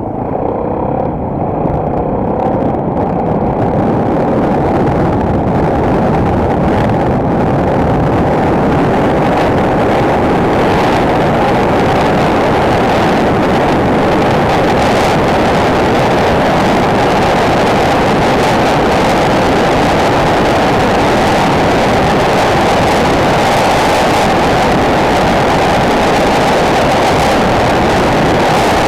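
Single-cylinder enduro motorcycle being ridden along. The engine runs under load, mixed with wind and road noise, building over the first few seconds and then holding steady.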